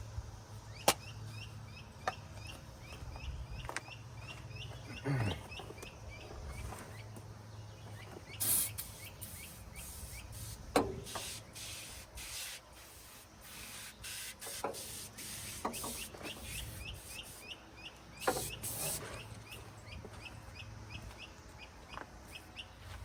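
An aerosol can of engine degreaser sprayed in short hissing bursts, with scattered clicks and knocks in between. A steady chirping goes on in the background, about three chirps a second.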